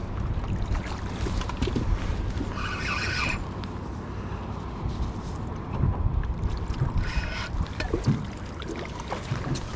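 Wind buffeting the microphone and water moving against a small fishing boat, a steady low rumble, with two short higher-pitched bursts about three and seven seconds in.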